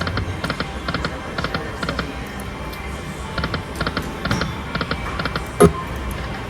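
Lightning Link slot machine spinning: a quick run of short electronic chime tones and ticks as the reels turn and stop, over a steady low casino hum. One sharp click near the end.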